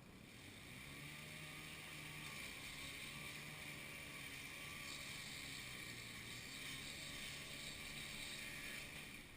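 An engine running at a steady speed with a constant low hum, starting just after the beginning and cutting off shortly before the end.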